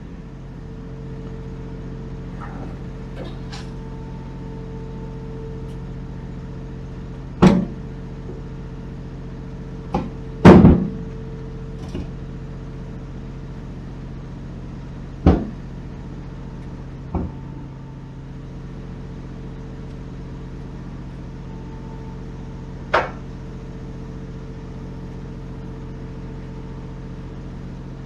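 A truck's diesel engine idling steadily, with a string of sharp knocks and clanks from flatbed load-securing work. The loudest knocks come about seven and ten seconds in.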